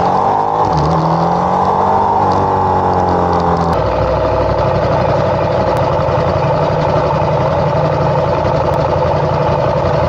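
Motorcycle engine accelerating, its pitch rising over the first couple of seconds and then holding; a few seconds in the sound changes abruptly to a steady, loud engine and road noise.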